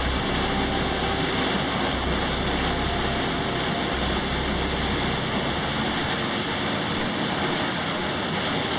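Waterfall roaring steadily, an even rush of falling water.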